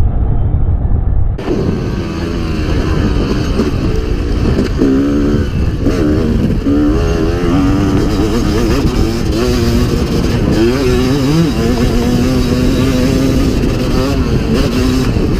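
Motocross dirt bike engine being ridden hard, its pitch climbing and dropping over and over as the throttle is worked and the gears change, then holding steadier near the end. A constant low rumble of wind on the microphone runs underneath.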